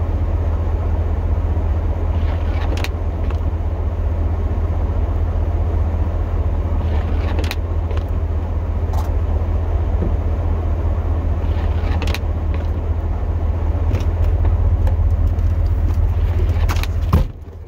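Plow truck's engine idling steadily during refuelling, a low, even hum with a few faint ticks. A sharp knock near the end, after which the sound drops noticeably quieter.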